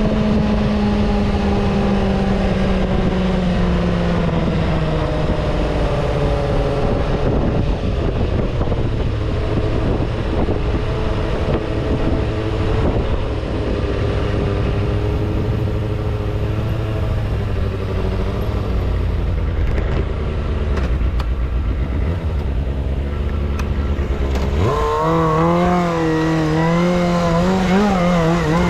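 Motor vehicle engine running on the road over heavy low road and wind rumble, its note easing slowly down early on. About 25 s in, a louder engine note comes in suddenly and rises and falls.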